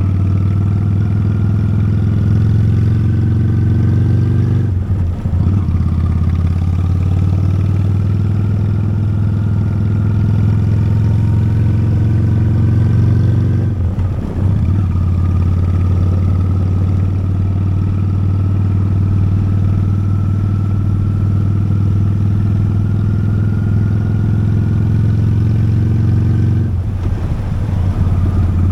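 Honda Steed V-twin motorcycle engine pulling steadily under way, its pitch climbing slowly, then dropping back three times with a brief dip in sound as the rider changes up a gear.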